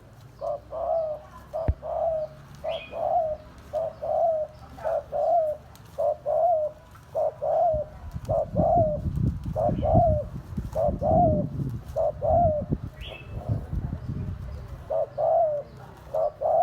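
Spotted dove cooing its repeated 'gù' call: short, low coos about twice a second, with a brief pause near the end. A low rumble runs under the coos through the middle.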